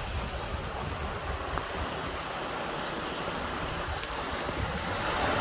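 Steady rush of a mountain creek, growing louder near the end, with low wind rumble on the microphone.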